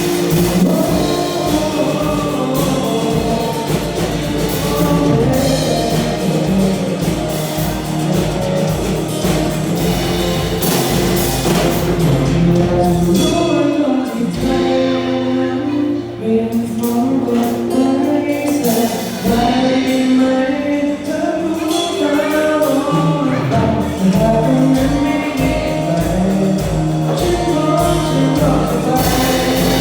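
A rock band's song with singing over drums and guitar. The drums drop out for a few seconds in the middle and build back in before the full band returns.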